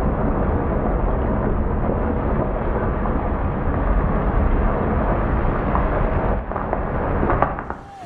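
Steady, loud rushing of floodwater carrying hail, with a few knocks late on; the sound drops away and cuts off near the end.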